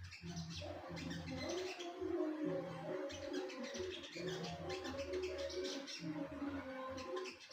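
A songbird chirping in quick bursts over background music with a repeating melody and a steady bass beat.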